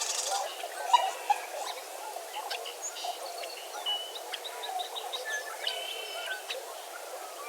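Dawn chorus at a wetland bird refuge: many birds calling at once, a busy mix of short overlapping chirps, whistles and trills.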